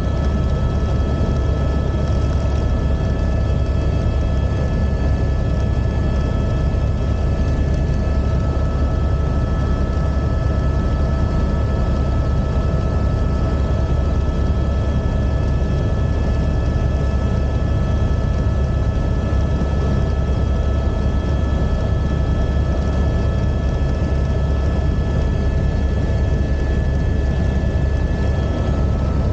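Helicopter in flight: a steady, loud low drone with several steady high-pitched whine tones over it.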